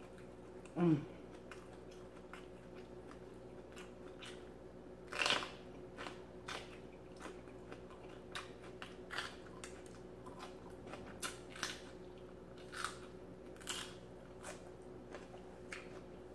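Close-up crunching and chewing of a raw mini sweet pepper: a loud crunchy bite about five seconds in, then many small crisp crunches.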